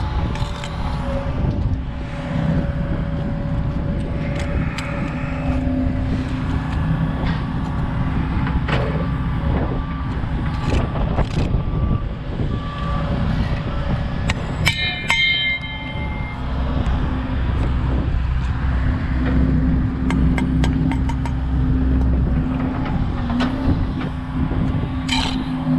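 A steady engine drone from site machinery under heavy low wind rumble on the microphone, with scattered sharp clicks and knocks throughout and a brief cluster of them about fifteen seconds in.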